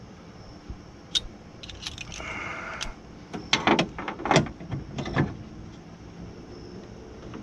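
Metal parts being handled inside a car door: a click, a short scrape, then a run of sharp metallic knocks and clanks as the window regulator bracket and bolts are worked into place.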